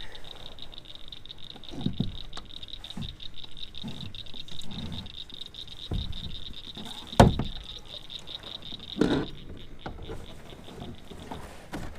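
Steady, high, finely pulsing chorus of frogs calling at night. Scattered low thumps and a sharp knock about seven seconds in, from gear and paddle bumping against the canoe.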